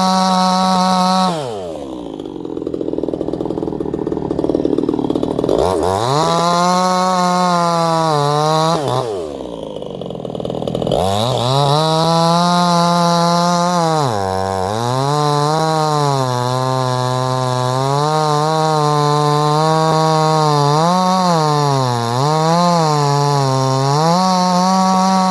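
58cc Chinese two-stroke chainsaw running at high revs. Its pitch drops sharply twice for a few seconds before climbing back, then wavers up and down as the throttle and load change.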